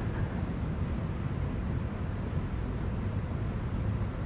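An insect, likely a cricket, chirping in a steady pulse of about four high chirps a second, over a low steady rumble.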